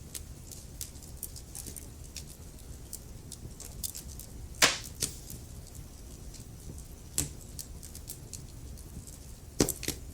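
Wood fire burning in a fireplace: logs crackling with frequent small snaps over a low steady rumble of the flames, and a few louder pops, the loudest about halfway through and another near the end.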